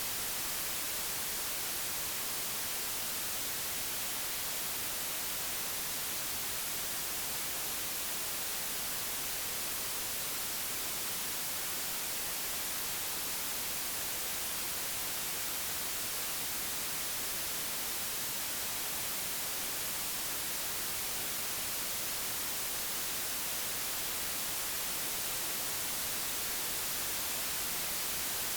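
Computer-generated white noise: a steady, even hiss with its energy strongest in the high frequencies, unchanging throughout.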